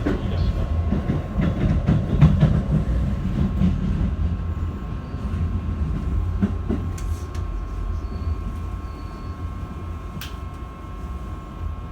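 Keikyu 1000 series electric train running, heard inside a passenger car: low wheel-on-rail rumble with clacks over rail joints in the first few seconds and a steady high whine. The rumble eases as the train slows into a station.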